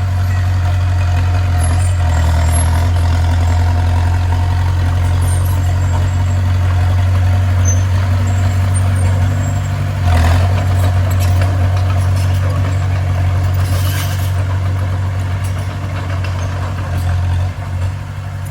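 Heavy earthmoving machine's diesel engine running steadily with a loud low drone, briefly louder about ten seconds in.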